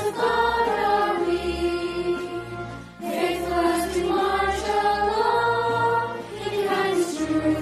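Music: a group of voices singing over a sustained low bass accompaniment. Phrases break briefly about three seconds in and again near the end.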